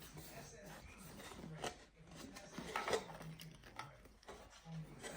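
Faint rustling and a few light clicks of small hard objects being handled and moved about.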